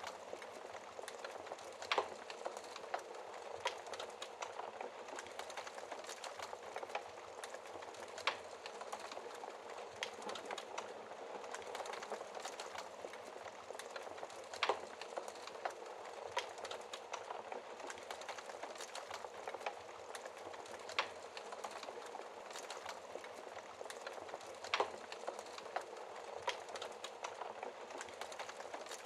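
Wood fire crackling in a fireplace: a steady hiss full of small crackles, with a sharper, louder pop every few seconds.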